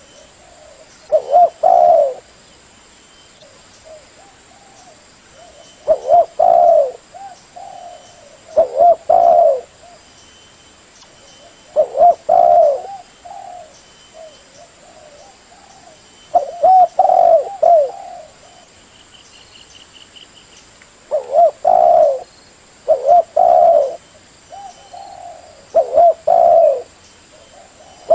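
Spotted dove cooing: a phrase of several low, curving coos repeated every few seconds, about eight phrases in all.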